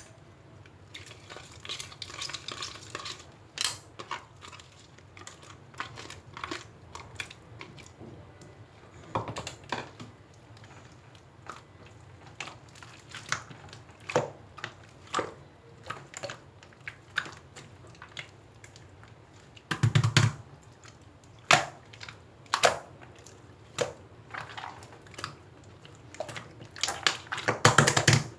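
Irregular close-up crunching and clicking, sharp clicks coming singly or in quick clusters with short pauses between, loudest about twenty seconds in and again near the end.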